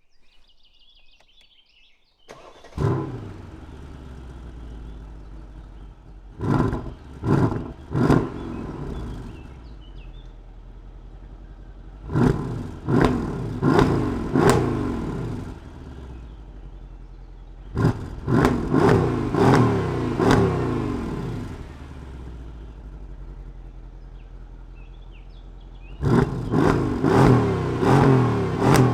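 2014 Mercedes-Benz CLS63 AMG Shooting Brake's twin-turbo 5.5-litre V8 starting with a sharp flare about three seconds in, settling to idle, then revved in short blips: three quick ones, then three groups of several, each falling back to idle.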